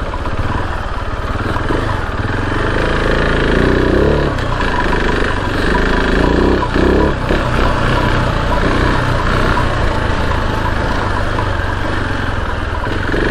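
KTM 690 Enduro R's big single-cylinder four-stroke engine running as the bike is ridden off-road, its note rising and falling a little with the throttle.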